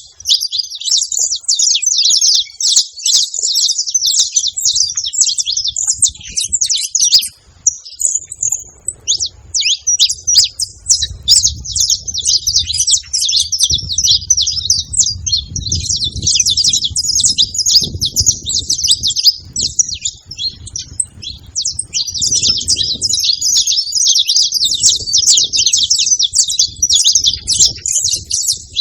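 Saffron finches singing: fast, high, twittering chirps that run almost without pause, breaking briefly about seven seconds in. A faint low rumble sits underneath from about ten seconds on.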